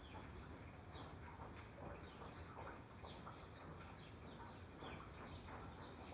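Faint birds chirping: many short, quick calls, several a second, over a low steady background hum.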